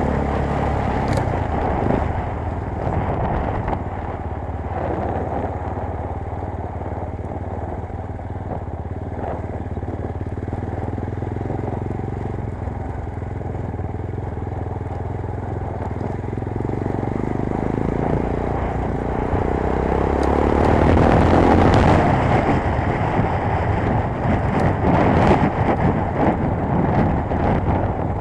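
Motorcycle engine running under way, with road and wind noise; it grows louder from about 17 seconds in, peaks a few seconds later, and stays loud and rough near the end.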